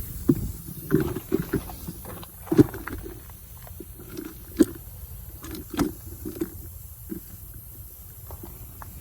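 Pliers working a nail out of a truck tire: irregular sharp clicks and dull knocks, about a dozen, with a low rumble underneath.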